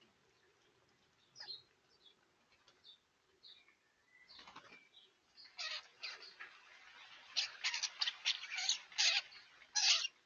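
Garden birds calling: a few short calls at first, then from about halfway a busy run of many short, scratchy calls close together, loudest near the end.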